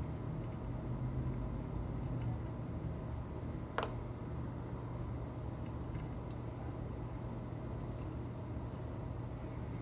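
Steady low room hum, with one sharp click a little under four seconds in and a few faint ticks later.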